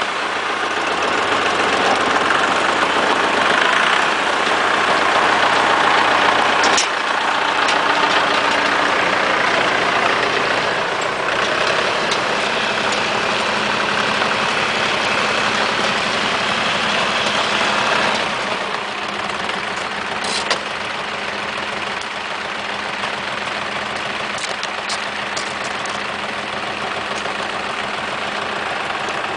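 Cronimo DF-404 compact tractor's engine running steadily, dropping to a lower, quieter idle about 18 seconds in. A few light clicks sound over it.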